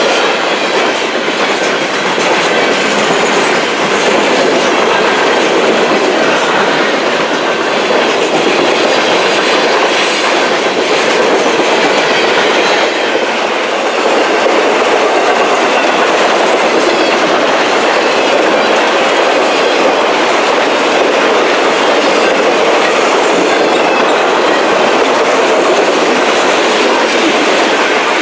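Railroad cars rolling steadily past, wheels clicking rapidly over the rail joints in a continuous loud rumble. A faint high wheel squeal comes in briefly about twenty seconds in.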